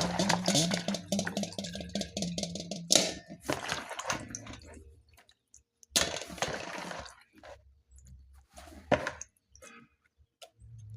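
Water running from a kitchen tap as meat is washed in the sink, stopping about three seconds in, followed by scattered knocks, splashes and handling sounds.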